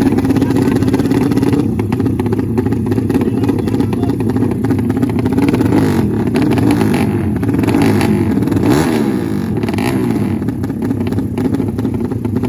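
Several drag-race motorcycle engines revving up and down together, their pitches rising, falling and crossing one another.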